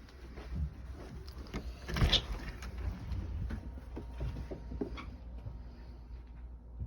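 Model train running on its layout: a low steady hum with irregular clicks and rattles, loudest about two seconds in.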